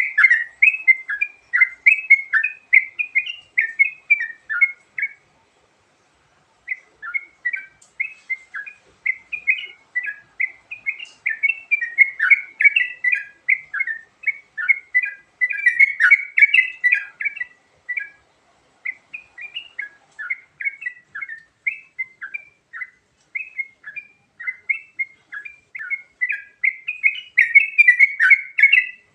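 Yellow-vented bulbul (trucukan) singing a long, varied run of quick, short notes, with a pause of about a second and a half about five seconds in.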